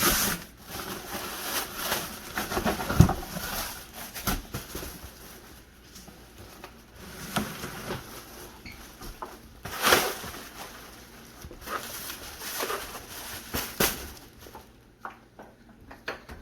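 Cardboard box and plastic packaging rustling and scraping as a car headlight assembly is unpacked, with a few sharp knocks along the way.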